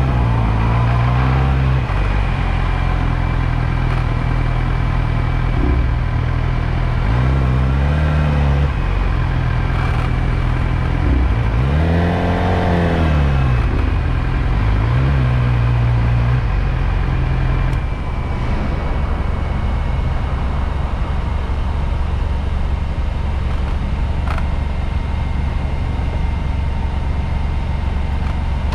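Motorcycle engine riding through city traffic, its pitch rising and falling about four times in the first two-thirds as it accelerates and slows, then settling into a steadier low rumble.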